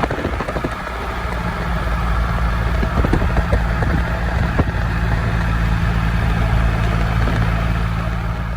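Triumph Rocket 3 R's 2,458 cc inline three-cylinder engine running steadily at a constant engine speed.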